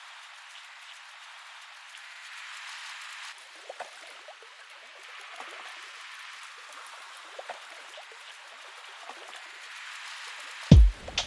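Steady rain hiss with no low end, thin like a filtered rain sample, with faint scattered drips coming in about a third of the way through. Near the end a loud deep kick drum hits as a lo-fi hip-hop beat starts.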